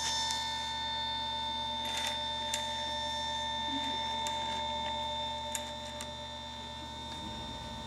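A 120-volt electric chainsaw sharpener's grinding motor running with a steady high whine and a few light ticks. Near the end a low, rapid throbbing starts underneath: an air compressor switching on.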